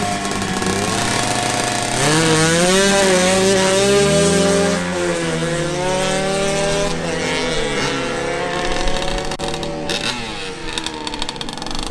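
Two drag-racing motorcycles, a two-stroke Yamaha RX 100 and a four-stroke AKT 125 LS, running at high revs. About two seconds in they get louder and climb in pitch, with repeated rises and drops as they accelerate down the strip. The engine sound thins out and fades near the end.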